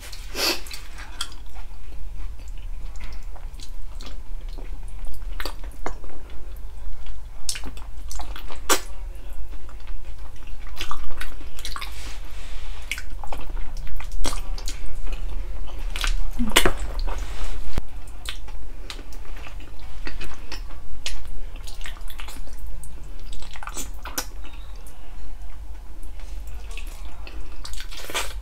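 Close-miked eating sounds: chewing and mouth clicks while eating pork-feet stew, with scattered short clicks of utensils on a dish. A steady low hum lies underneath throughout.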